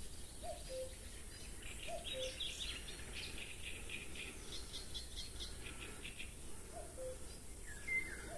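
Wild birds singing: a low two-note call, the second note lower, repeats every second and a half or so, three times near the start and again near the end, while a quicker, higher chattering song runs through the middle.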